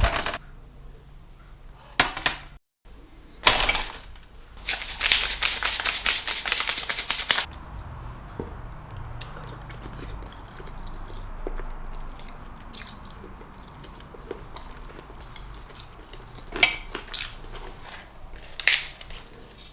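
A series of sharp knocks and clatter, with a fast rattling run of strokes lasting about three seconds a few seconds in, then two more sharp clicks near the end.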